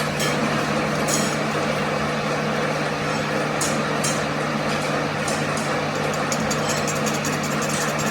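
A machine's motor running steadily with a constant low hum and a spread of mechanical noise, with light ticks now and then.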